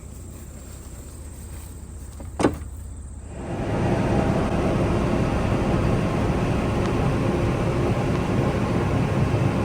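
A vehicle's engine and road noise. It is quiet at first, with a single sharp click about two and a half seconds in, then becomes a steady, louder sound of driving from about three and a half seconds on.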